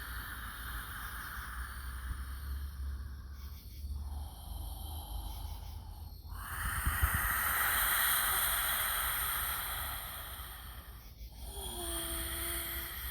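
A woman breathing deeply and audibly in a series of long, breathy exhales, about four, each a few seconds long. The middle one is the loudest, and the last turns into a soft voiced sigh or hum near the end.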